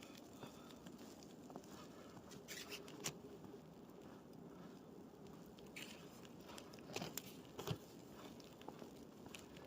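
Faint footsteps crunching in snow, a few sharper crunches at uneven intervals over a quiet hiss.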